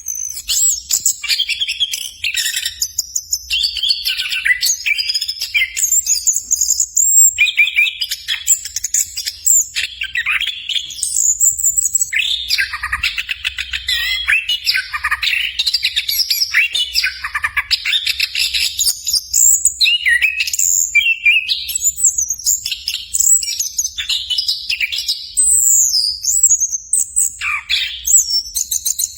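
Orange-headed thrush (anis kembang) singing at length: a continuous stream of rapid, varied high warbling and twittering phrases with hardly a pause.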